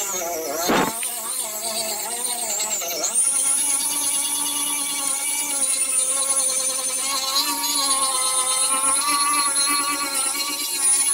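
Electric grinder with a sanding pad running under load, its pitch wavering for the first few seconds, dipping briefly about three seconds in, then running steadily. A single knock sounds about a second in.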